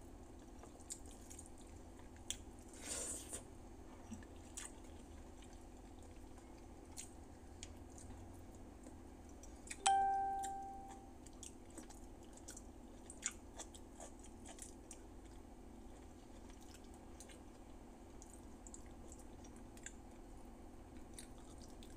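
Eating by hand: soft chewing and small wet mouth clicks over a steady low hum. About halfway through comes a single sharp ringing clink, the loudest sound, fading over about a second.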